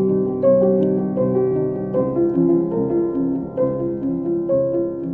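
Background music: a gentle piano melody, with notes changing about every half second.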